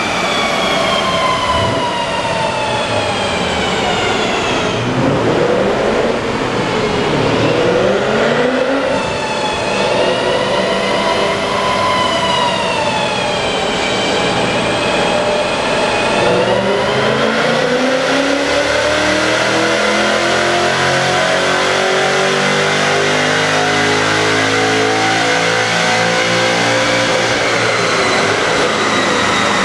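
BMW M5 E39's 5.0-litre V8 running on the rollers of a chassis dynamometer. The engine note falls for the first few seconds, wavers up and down through the middle, then climbs slowly and steadily through the second half as the revs build.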